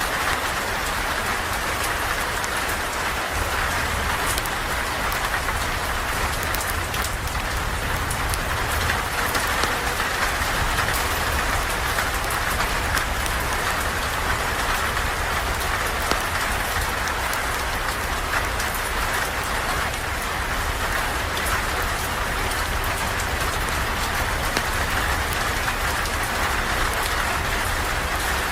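Steady rain falling, an even, unbroken hiss scattered with many small ticks of drops.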